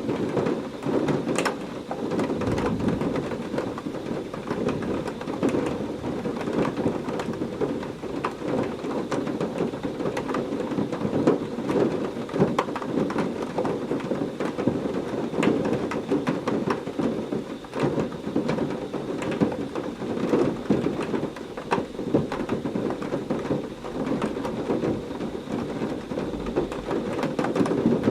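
Heavy rain falling steadily, a dense patter with many sharp drop impacts. Low thunder rumbles come in about two seconds in and again near the end.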